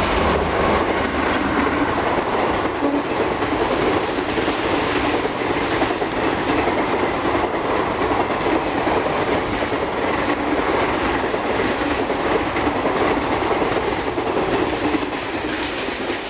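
Indian Railways express passenger train hauled by a WAP-4 electric locomotive passing close at speed: a steady rush of noise with wheels clattering over the rail joints as the coaches go by, easing slightly near the end as the last coach clears.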